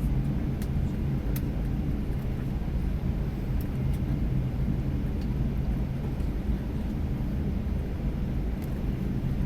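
Steady low rumble in the cabin of a Boeing 737-800, with its CFM56 engines and the airframe running on the ground just after landing, as the aircraft rolls along the runway or taxiway.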